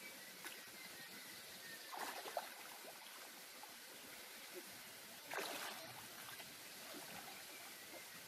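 Shallow river water trickling steadily, with two brief splashes, about two seconds in and again past the middle.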